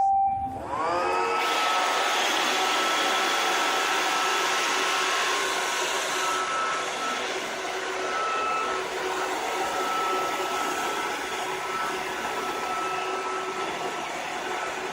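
Roomba robot vacuum's motor spins up with a rising whine about a second in, then runs steadily, its fan and brushes whirring. This is the robot running while it drives itself back to its charging dock after its home button is pressed.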